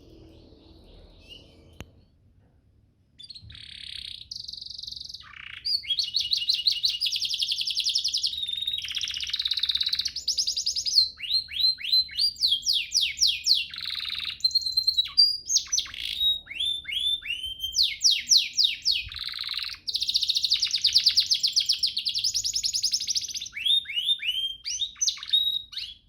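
Domestic canary singing a long, continuous song of rapid high trills and runs of quick downward-sweeping notes, beginning about three seconds in.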